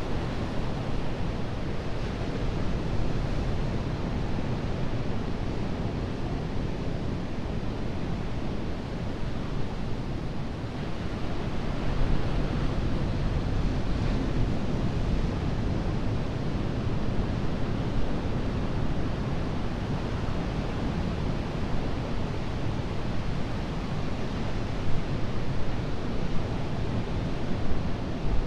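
Ocean surf: a continuous low wash of breaking waves that swells and eases slowly, with some wind rumble on the microphone.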